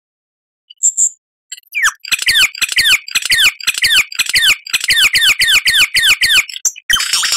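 Lyrebird song: after a brief pause and a single chirp, a fast run of descending whistled notes, about five a second. Near the end it switches to a harsher, denser rattling series.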